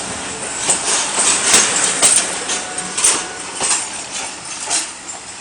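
Departing passenger train rolling past, its wheels clacking irregularly over rail joints over a steady rumble, fading away toward the end.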